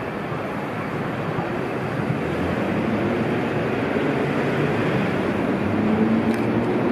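Electric train running through the station, its noise growing steadily louder, with a few steady tones coming in near the end.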